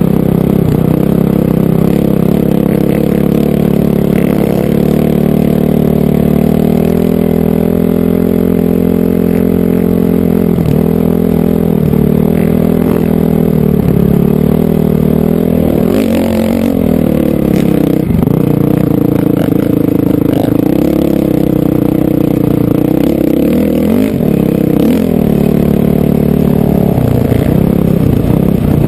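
Honda CRF450R single-cylinder four-stroke dirt-bike engine running hard under changing throttle, its pitch rising and falling repeatedly as the rider works the throttle and gears.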